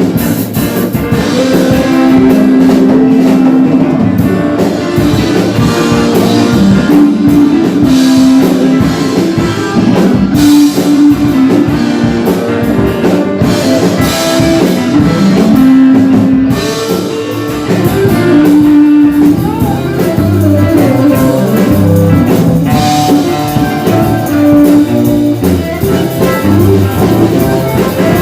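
A band playing rock-style music with guitar and drum kit, loud and continuous.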